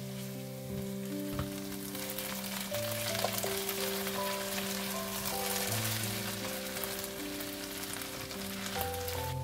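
Diced potatoes and onion sizzling in hot oil in a pan as a silicone spatula stirs them, the sizzle growing louder about two seconds in. Soft background music with long held notes plays underneath.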